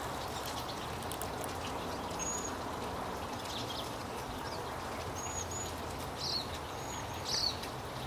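Small songbirds giving short, high chirps, a few scattered through and more of them in the second half, over a steady background noise.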